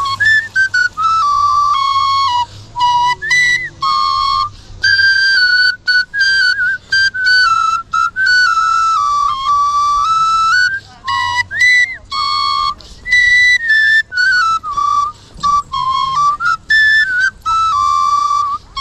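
Old Russian svirel, a six-hole folk flute, playing a melody while a man whistles the same tune along with it, in phrases separated by short breaks. The whistler struggles to hit the high leaps cleanly.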